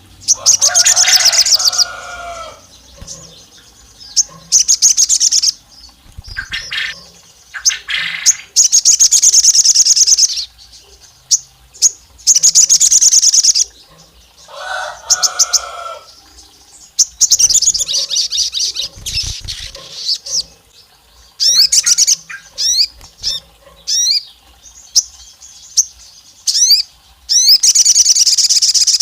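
Sogon bird calling in repeated loud bursts of rapid, high chirping trills, each lasting a second or two with short gaps between. A few bursts carry a lower warble, and near the end come several quick swooping whistles. The call is a lure recording said to sound like a female calling a male.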